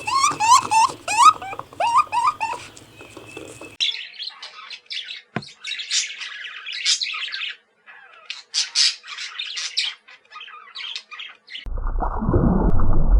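Bird calls in two spliced recordings: for about four seconds a run of squawking notes that swoop up and down in pitch, then a different bird's high, rapid chirping and twittering. About a second and a half before the end it cuts abruptly to a low rushing noise.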